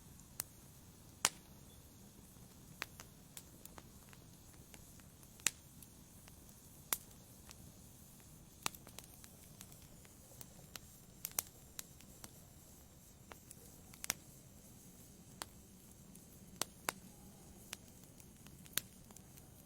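Wood fire burning in a fireplace: sharp, irregular crackles and pops, about one a second, over a faint low rumble of the flames.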